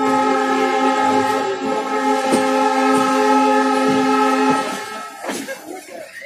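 Train horn sounding one long, loud, steady blast of several pitches together, which cuts off about four and a half seconds in. Quieter rail rumble and a few knocks follow.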